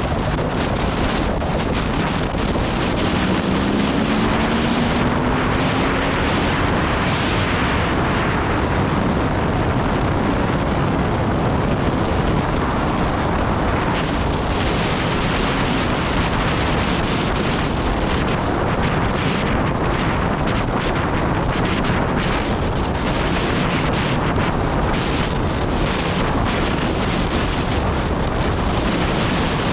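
Heavy wind rushing over the microphone of a motorcycle at speed, with the Aprilia Tuono V4 Factory's V4 engine running underneath and rising in pitch a few seconds in as it accelerates.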